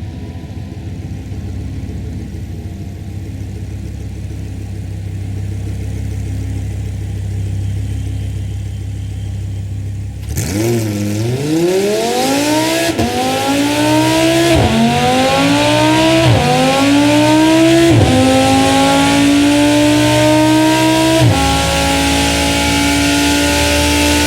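Audi R8 V10 Plus's 5.2-litre V10 engine: a low steady rumble, then about ten seconds in it breaks into hard acceleration, pitch climbing and dropping back at each of five quick upshifts, getting louder through the gears.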